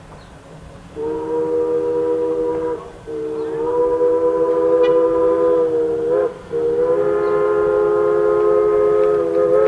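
Pennsylvania Railroad three-chime steam whistle sounding a steady three-note chord on a steam locomotive, in three blasts: a shorter one about a second in, then two long ones, the last still sounding at the end. A low rumble runs underneath.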